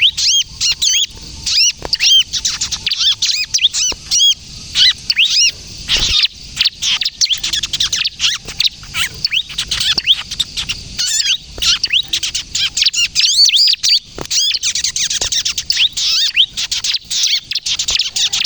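Bar-winged prinia (ciblek) calling busily: a fast, nearly unbroken stream of short, high, arching chirps, sharp and shrill, of the kind played to lure wild prinias and to get young birds to call.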